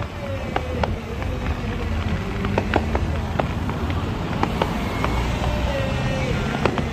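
Aerial firework shells bursting: a dozen or so sharp bangs and pops at irregular intervals, over a steady low rumble.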